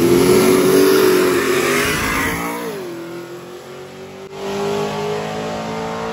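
Drag car engines revving: a loud rev that falls away about two and a half seconds in, then an engine holding a steady, slowly rising note.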